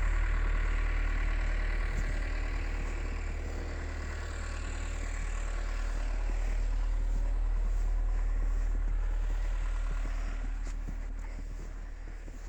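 A vehicle engine idling steadily, a low rumble that eases off slightly near the end.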